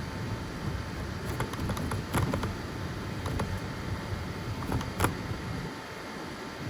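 FDM 3D printer running mid-print: a steady hum of its fans and stepper motors, with a few short sharp clicks, the loudest about five seconds in.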